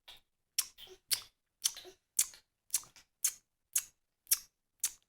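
A baby's mouth clicks, short and sharp, repeated evenly about twice a second.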